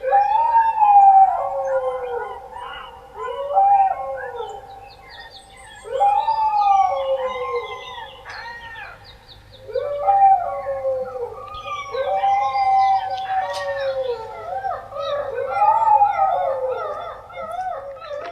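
Several dogs howling together in overlapping long, rising-and-falling howls, with higher yips and wavering cries mixed in toward the end.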